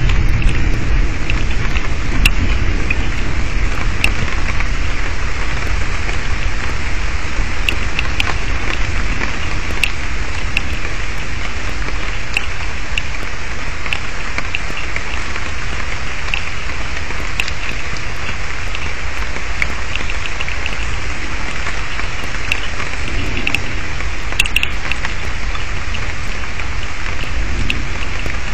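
Heavy rain in a thunderstorm, with many sharp drop ticks close to the microphone over a steady hiss and a low rumble that is strongest at the start.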